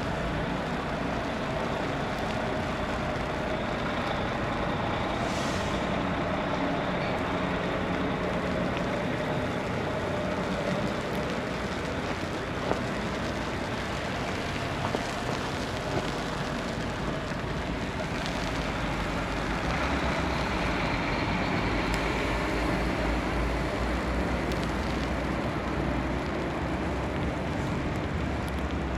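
Snowbound city street ambience: a steady hiss of traffic and weather with a motor vehicle's engine running, its low rumble growing stronger through the second half.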